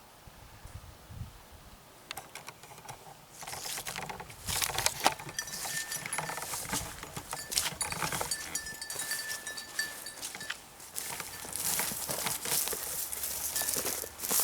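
Jingling of a bird dog's collar bell with a steady ring now and then, over rustling and crackling as the dog moves through brush at the pond's edge. It starts about two seconds in.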